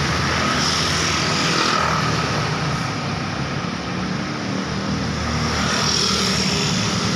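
Steady, loud road traffic: vehicles passing by with engine and tyre noise. It eases slightly in the middle and then builds again.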